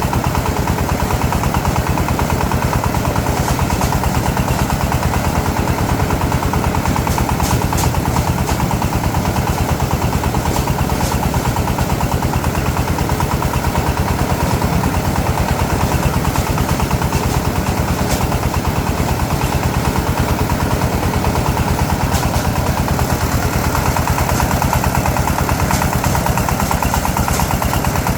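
Small engine running steadily at constant speed, with a rapid, even firing beat that does not change.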